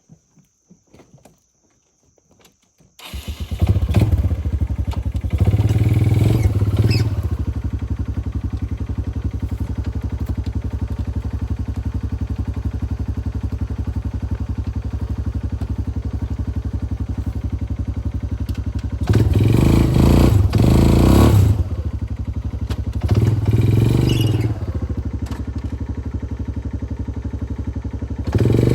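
Four-wheeler (ATV) engine comes in suddenly about three seconds in and runs steadily, revving up in several bursts as it pulls.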